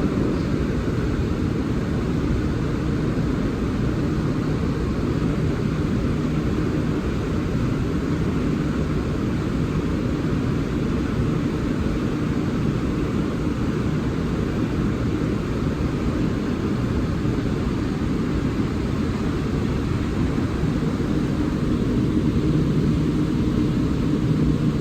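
Steady low rumble of railway station platform ambience, with a faint steady hum.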